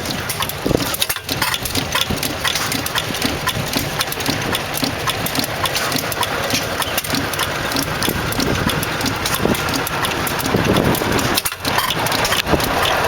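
4 HP McVicker tank-cooled hit-and-miss engine running, a steady stream of clicks and low pulses.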